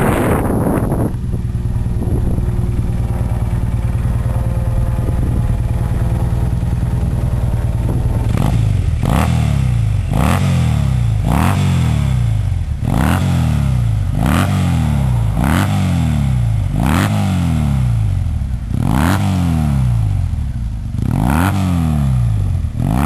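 2009 Triumph Bonneville SE's 865 cc air-cooled parallel twin through Staintune aftermarket mufflers, idling steadily for about eight seconds. Then it is revved in about a dozen quick throttle blips, a little over a second apart; each one climbs sharply and falls back to idle.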